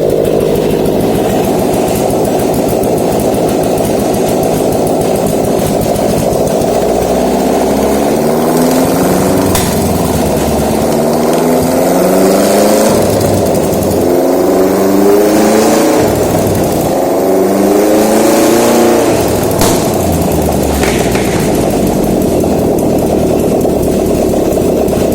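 Subaru EL154 1.5-litre flat-four engine running on a test stand: it idles steadily, is revved up and back down several times in the middle, then settles back to idle.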